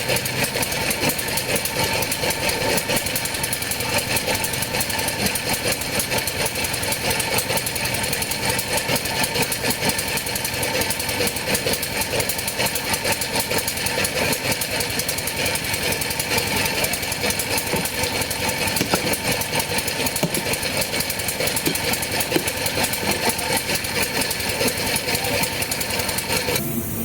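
A motor-driven machine running steadily with a fast, even rattle; its higher whine cuts off just before the end.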